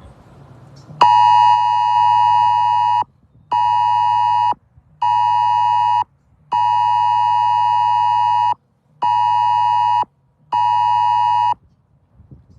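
Loud electronic beeping: six steady tones of one pitch, two lasting about two seconds and four about a second, with short gaps between.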